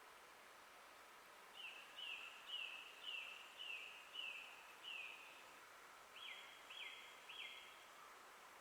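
Faint forest birdsong: a bird sings a run of seven short falling notes, about two a second, then after a brief pause three longer notes, over a faint steady hiss of forest ambience.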